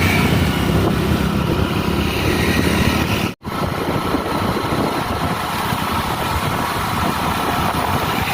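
Motorcycle riding along a highway: steady engine and rushing wind and road noise. The sound drops out abruptly for a split second about three seconds in.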